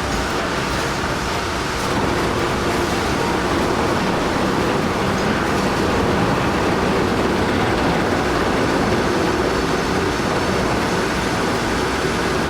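Steady, dense rumbling noise of a heavy vehicle running, growing slightly louder about two seconds in and cutting off suddenly at the end.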